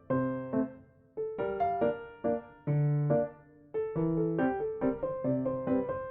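Background music: a gentle electric piano melody of separate notes, each fading after it is struck.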